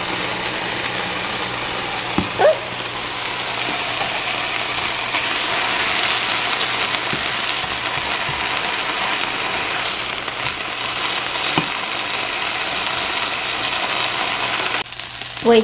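Chicken breasts and vegetables sizzling in frying pans: a steady hiss over a faint low hum, with a couple of light clicks about two seconds in.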